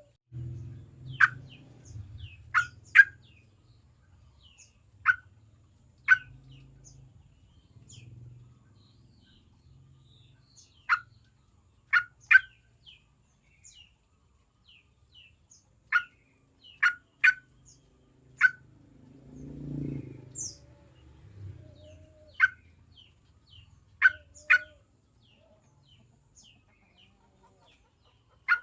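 Yellow-vented bulbul (trucukan) giving short, sharp calls, singly and in quick pairs, at irregular intervals of one to several seconds. A brief low rumble comes about twenty seconds in.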